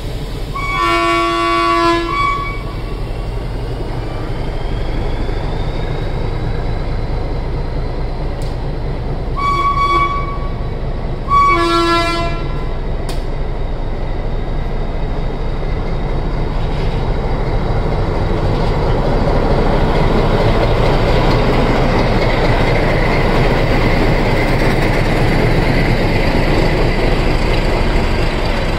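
Ooty toy train's locomotive sounding its horn: one blast of about a second and a half, then two short blasts a few seconds apart. After that the train's steady running rumble grows louder.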